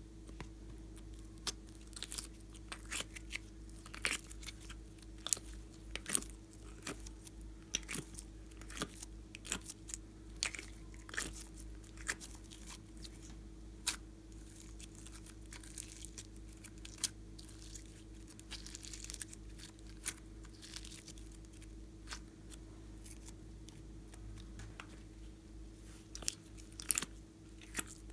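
Slime being pressed and worked by hand, giving irregular crisp clicks and crackles, over a steady low electrical hum.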